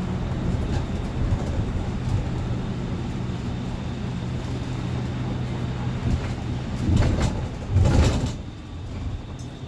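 A steady low motor hum, with two short, loud rushes of noise about seven and eight seconds in.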